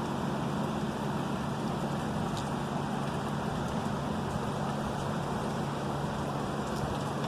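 Heavy rain pouring down, an even, steady rushing noise with a few faint ticks.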